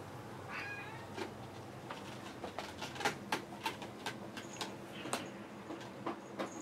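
Scattered light clicks and taps, coming thicker in the second half, with a short high-pitched chirp-like sound about half a second in.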